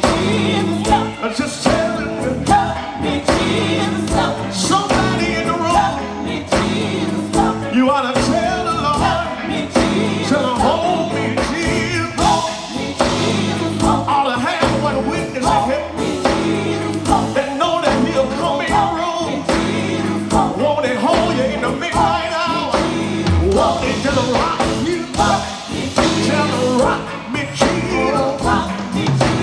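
Gospel quartet singing with a live band: several voices in harmony over guitar, bass and keyboard, with a steady beat.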